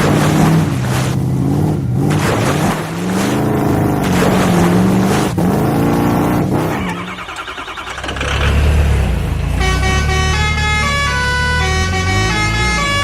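Cartoon toy-vehicle sound effects: engine and horn tones that rise and fall in pitch like revving. About nine or ten seconds in, a melody of short notes starts over a low rumble.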